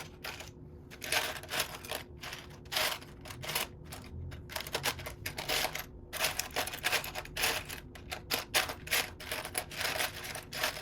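Loose plastic Lego bricks clicking and clattering as a hand rummages through a pile of unsorted pieces, a quick irregular series of small clicks.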